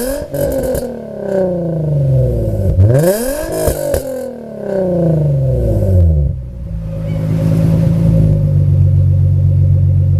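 Nissan Z33's 3.5-litre VQ35DE V6 breathing through an aftermarket Y-pipe exhaust, free-revved with no load. The revs fall away from a blip at the start, are blipped again about three seconds in and drop back, then settle to a steady idle for the last few seconds.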